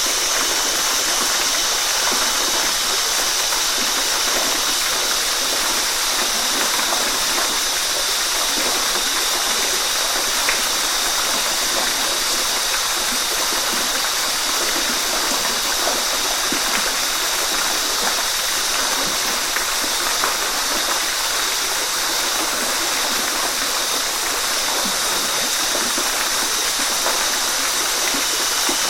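Waterfall: water falling and splashing in a steady, unbroken rush, with no rise or fall in level.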